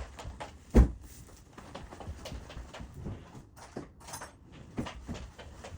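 Handling noises from unpacking a new vacuum cleaner's box: a run of small knocks, clicks and rustles, with one loud thump a little under a second in.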